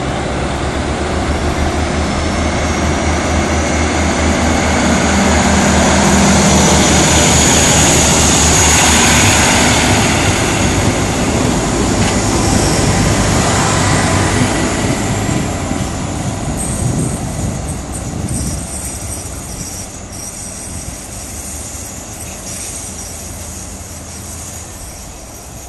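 A diesel commuter railcar set pulls away and accelerates past, its engine throbbing low and rhythmically, with a high rising whine early on and again midway. The sound peaks as it passes and then fades steadily as the train runs off into the distance.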